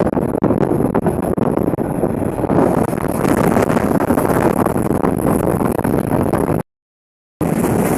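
Steady running noise of a moving passenger train, a dense rumble mixed with wind buffeting the microphone. It cuts out to silence for under a second about six and a half seconds in.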